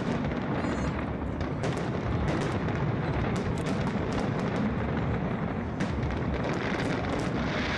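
Fireworks display: aerial shells bursting in quick succession, a dense, unbroken run of bangs and crackles.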